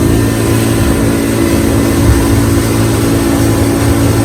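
Boat engine running steadily under way, with a constant rushing noise over it.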